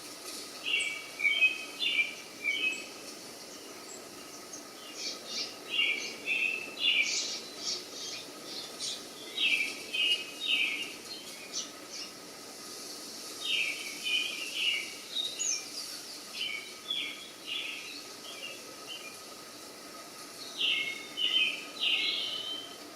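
A small bird singing: short phrases of quick high chirps repeated every few seconds, with pauses between, over a faint steady hiss.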